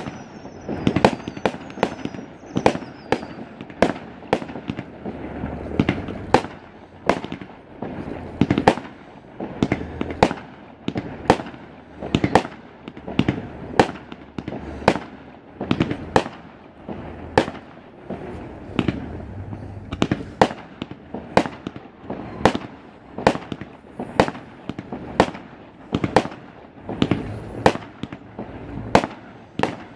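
Fireworks display: a steady run of sharp bangs from shells and rockets bursting, a little more than one a second, over a continuous low rumble. A few short, high, falling whistles sound in the first few seconds.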